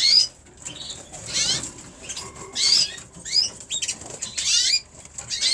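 Young cock canaries singing: short bursts of high warbling trills, about five or six phrases broken by brief pauses.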